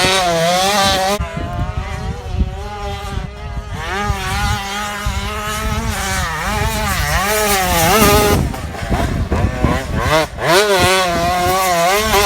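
Motocross motorcycle engines revving, the pitch rising and falling over and over as the throttle opens and closes, with a steadier engine note holding underneath.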